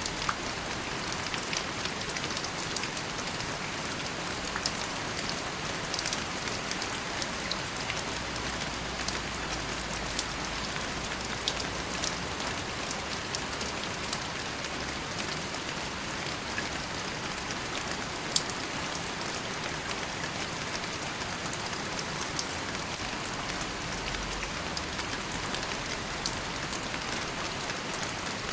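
Steady rain falling on a surface, an even hiss with scattered close drop impacts ticking through it.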